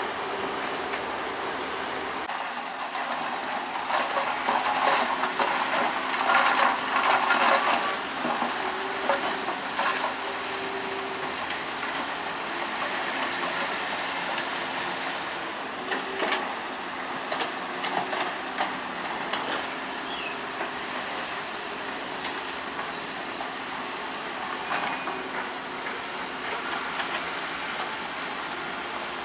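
Heavy diesel earthmoving machinery, a bulldozer with dump trucks, running steadily with metallic clanking and rattling. The noise grows louder for a few seconds, from about four to eight seconds in, and sharp clanks come later.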